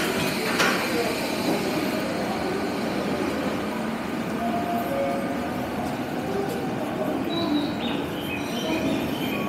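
Steady noise of an underground railway platform with a commuter train at the track, a sharp clack about half a second in.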